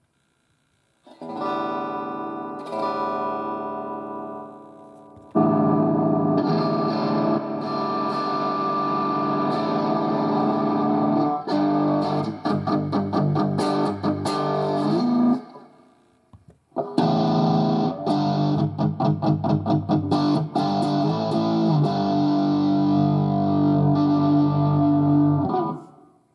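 Electric guitar played through a NUX Mighty Air small wireless guitar amp with a distorted, effected tone. A chord rings and fades about a second in, then continuous playing starts at about five seconds, breaks off briefly near the sixteen-second mark, resumes, and stops just before the end.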